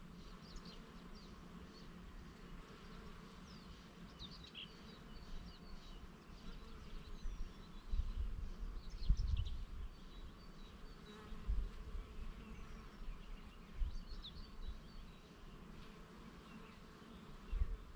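Bees buzzing among flowers in a steady low hum, with small birds chirping in short high calls throughout. Gusts of wind rumble on the microphone about halfway through and again a few times near the end.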